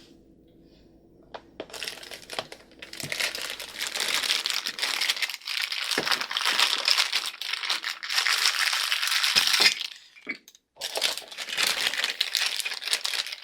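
Plastic bag crinkling and rustling as toy pieces are unwrapped and pulled out. It starts after a quiet moment and stops briefly about three-quarters of the way through.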